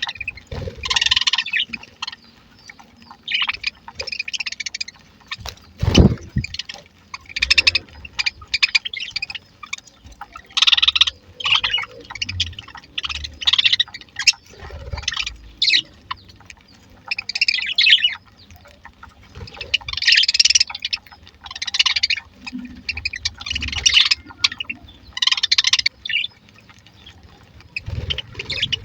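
A flock of budgerigars chirping and warbling in short bursts, over and over. A single loud thump comes about six seconds in.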